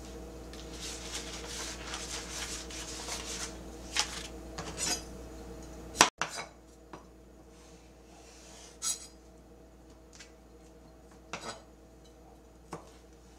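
Scattered clinks and knocks of hard household objects being handled, over a steady low hum; the background drops quieter after an abrupt break about six seconds in.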